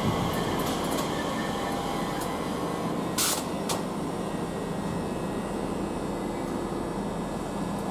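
Steady hum of a train standing at the station platform, with a short hiss about three seconds in.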